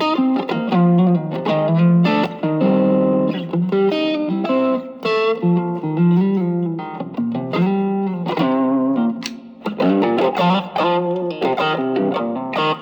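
Electric guitar played through an Ibanez TS808 Tube Screamer overdrive pedal set as a boost: a run of picked single notes and short chords with a mild overdriven edge.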